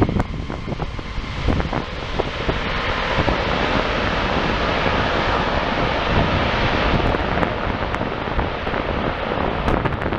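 Wide-body jet airliner passing close by, its engine roar building over the first few seconds and thinning near the end, with wind buffeting the microphone.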